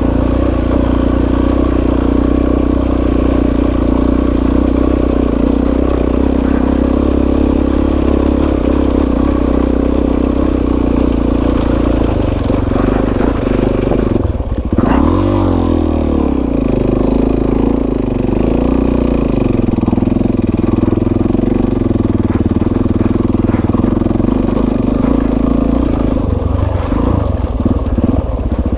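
Suzuki DR-Z400S single-cylinder four-stroke dual-sport motorcycle engine running steadily under way. About halfway through the engine note briefly dips and changes pitch, then settles again.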